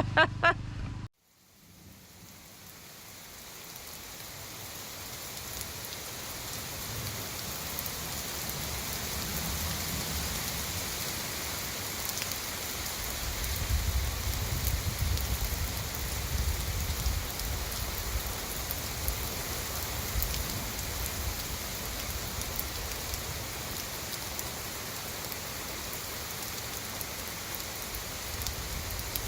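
Steady rain falling, fading in after a cut, with a low rumble swelling about halfway through.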